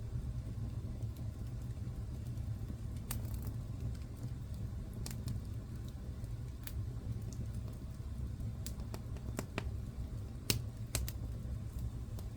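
Wood fire in a fireplace crackling: scattered sharp pops over a steady low rumble, the loudest pop about ten and a half seconds in.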